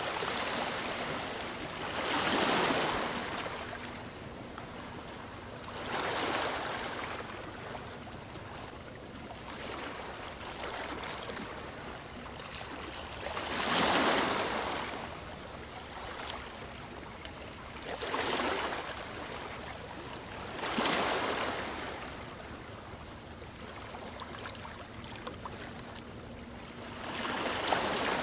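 Ocean waves breaking and washing in: about six surges that swell and fade over a second or two each, with a steady rush of water between them.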